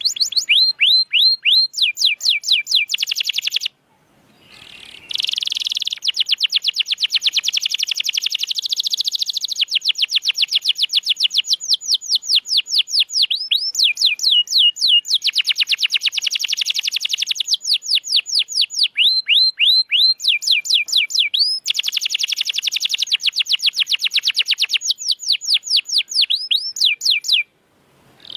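Domestic canary singing long trills of rapidly repeated notes, each a quick downward sweep, moving between slower and faster, denser rolls. The song breaks off briefly twice, just before four seconds in and near the end.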